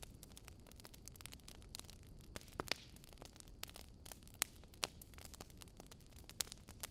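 Fire crackling: irregular sharp pops and snaps over a low steady rumble, with a few louder pops scattered through.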